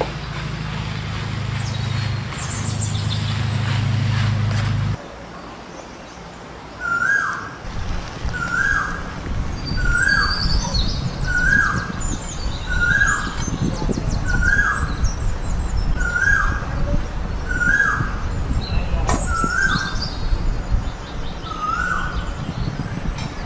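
A bird repeats a short call about once a second, ten times in a row, with other birds chirping higher up and a low rumbling noise underneath. At the start a low hum runs for about five seconds and cuts off suddenly.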